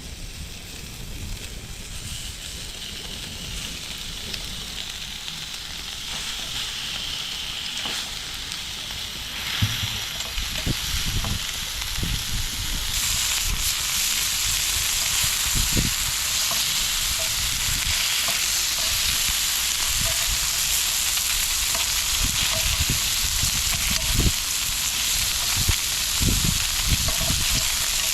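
Food frying in a pan, a steady sizzle that grows louder about ten seconds in and again at about thirteen seconds, with occasional short low knocks.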